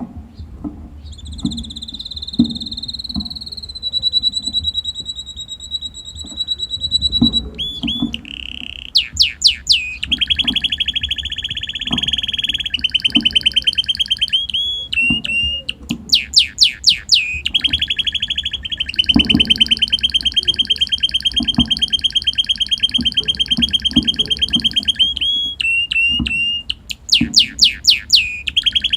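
Red canary singing: a long run of fast, high trills and rolls, some held for several seconds, broken by quick sweeping notes.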